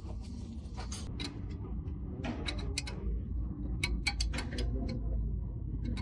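Irregular sharp metallic clicks and taps, several in quick runs near the middle, over a steady low rumble.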